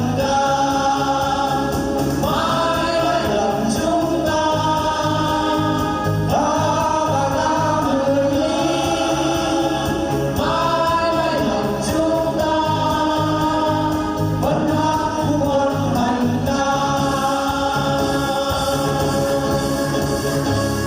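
A choir singing in long held phrases over a musical accompaniment with a steady beat; the music stops right at the end.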